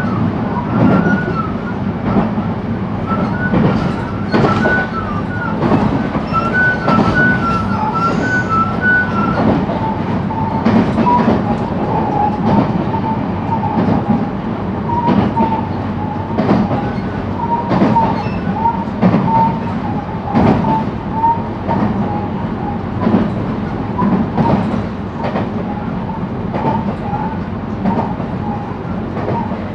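JR West 223-series electric train heard from inside the motor car KuMoHa 223-2079 while running between stations: a steady rumble from the running gear, with irregular clacks of the wheels over rail joints and a faint broken whine that steps down in pitch about a third of the way in.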